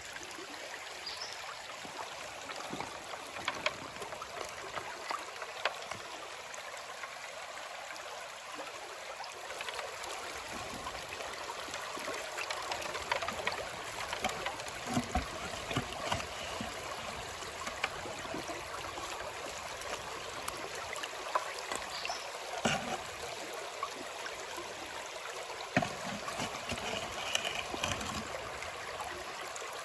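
Creek water running steadily, with scattered small clicks and knocks throughout.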